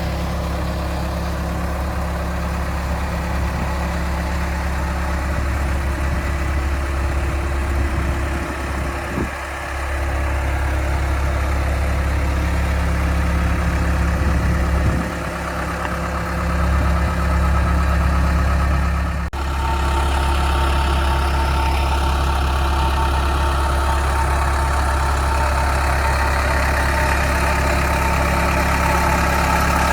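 Case 445 skid steer's diesel engine running at idle, dipping briefly twice.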